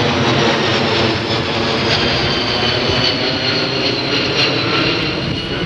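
Jet engines of a McDonnell Douglas KC-10 Extender's three turbofans running in flight, a steady loud rush with a high whine that slowly falls in pitch.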